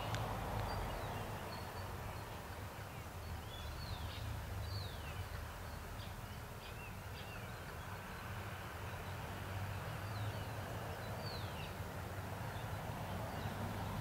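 Birds calling in short, high whistles that each slide down in pitch, a run of them in the first few seconds and a few more later on, over a low steady rumble.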